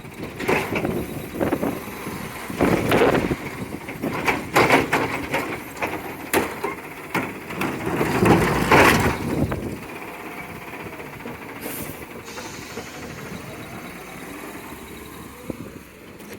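Recyclables being emptied: a dense run of clattering and knocking for about ten seconds, then a steadier, quieter rumble.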